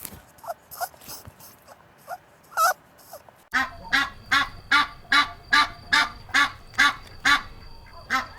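Domestic waterfowl calling: a few scattered short calls, then, after an abrupt change about three and a half seconds in, a steady run of loud, evenly spaced honking quacks, a little over two a second.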